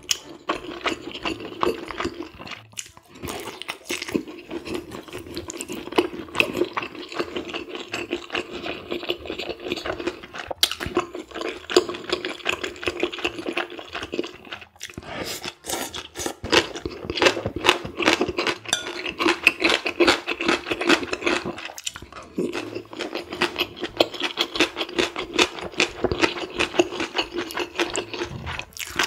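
Close-miked eating sounds: a person chewing with rapid, irregular wet clicks and smacks while eating spicy stir-fried squid and pork, rolled omelette and seasoned radish with chopsticks.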